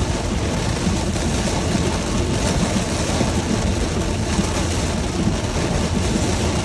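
Heavy rain on a moving car, mixed with the steady hiss of tyres on a wet road and a low, even rumble from the car.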